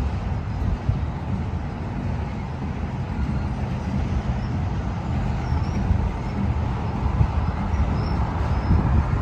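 Union Pacific train's diesel locomotives running under power as the train moves, a steady low rumble.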